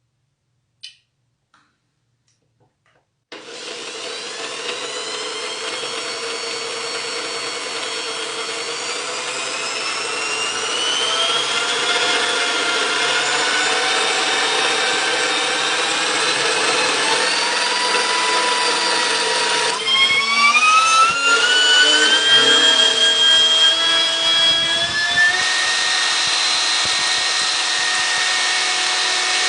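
A power tool's electric motor starts suddenly a few seconds in and runs with a whine that slowly rises in pitch. About two-thirds of the way through, a rough, uneven rubbing grind is added for several seconds, the spinning part pressed against the workpiece to friction-weld it, before the sound settles back to a steady whine.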